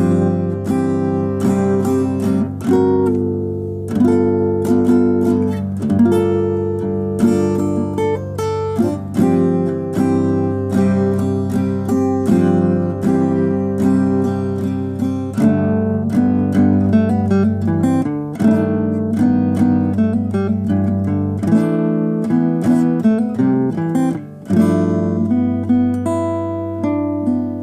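Solo acoustic guitar playing an instrumental passage, a mix of picked notes and strummed chords that ring on, with no singing.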